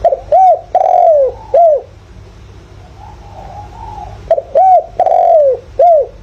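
Spotted dove cooing: two three-note phrases about four seconds apart, each with a longer, drawn-out middle note. Fainter cooing comes in the gap between them. This is a male's 'giọng thổ' call, used as a decoy to stir wild doves into answering.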